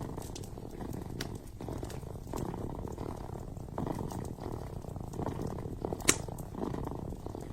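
Kitten purring steadily, the purr swelling and easing with each breath about every second and a half, over the light crackle of a wood fire. One sharp pop from the fire about six seconds in.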